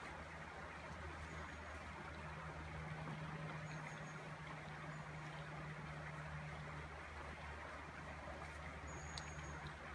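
Shallow river running over a cobble bed, a steady rushing, with a low steady hum underneath and a few faint high chirps.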